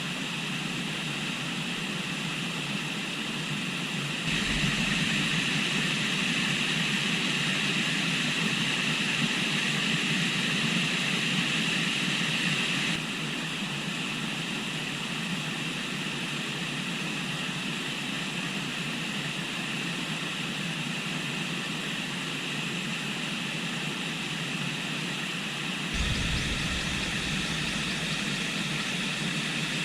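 Steady rush of a flowing river. It turns abruptly louder and brighter about four seconds in, drops back around thirteen seconds, and grows louder again near the end.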